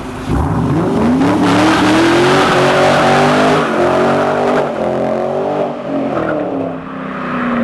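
2006 Ford Mustang GT's 4.6-litre V8 through a Pypes mid-muffler exhaust, launching and accelerating hard: the engine note climbs steeply, breaks at gear changes a few seconds in, then falls away near the end.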